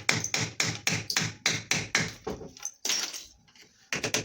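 Rapid repeated tapping strikes, about four to five a second, easing off about two seconds in, with a few quicker taps near the end.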